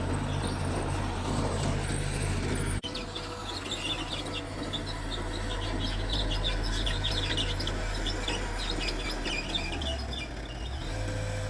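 Bulldozer's diesel engine running steadily with a low drone. Almost three seconds in there is a brief sharp break, and after it a fast run of short high chirps or squeaks lasts until near the end.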